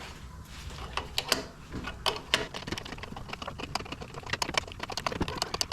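A ratchet wrench clicking in quick, irregular runs while turning the nut of a cam bearing puller, drawing the old cam bearing out of a Harley-Davidson Evo engine; the clicks come thicker near the end.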